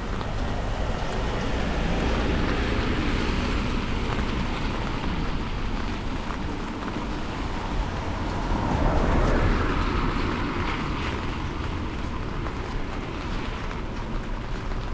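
Traffic passing on a wet street, tyres hissing on the road, with the nearest vehicle going by about nine seconds in.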